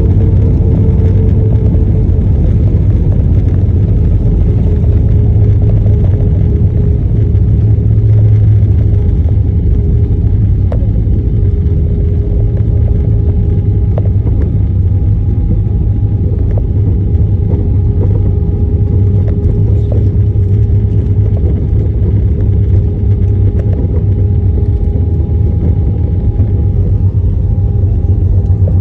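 Jet airliner cabin noise: a loud, steady low rumble with a faint engine hum held throughout and occasional small clicks and knocks.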